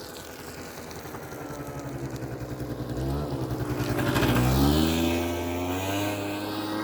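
Kymco Super Fever ZX 50cc two-stroke scooter engine running on the move, getting steadily louder. About four seconds in its pitch rises as it accelerates, running on its newly fitted 86 main jet.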